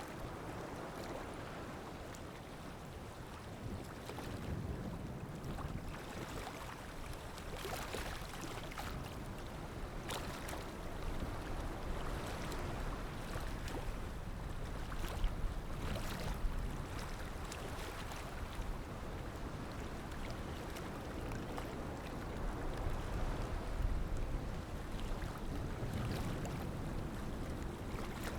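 Sea waves washing and lapping, a steady rush of water with scattered small splashes, swelling a little twice.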